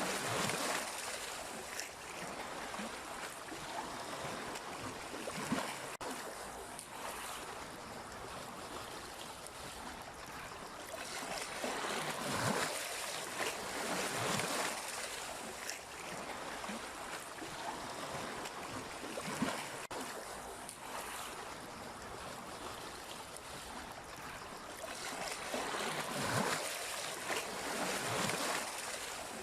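Sea waves washing onto the shore, a steady hiss of water that swells and falls in a slow, uneven rhythm, loudest around the middle and again near the end.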